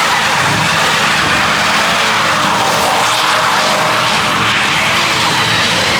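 Loud, steady roar of a car engine held at high revs, with no breaks.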